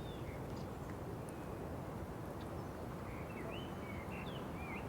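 Steady rush of water, with short bird chirps and twitters over it: a few right at the start and a run of them in the last second and a half.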